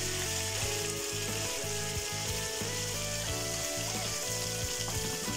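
Boiled potato pieces frying in hot oil with a steady sizzle as a wooden spatula stirs them through the tempering of mustard seeds and curry leaves.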